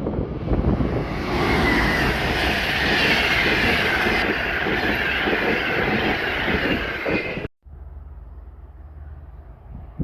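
Railway carriages rolling past, a loud rumble of wheels on the rails with a wavering squeal over it. It cuts off suddenly about three-quarters of the way through, leaving a much quieter steady rumble.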